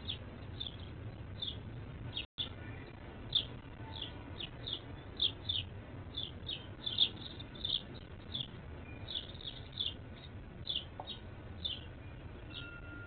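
Small birds chirping at a feeder: a steady run of short, high, downward-sliding chirps, one to three a second, over a low background rumble, with a brief dropout of all sound a little over two seconds in.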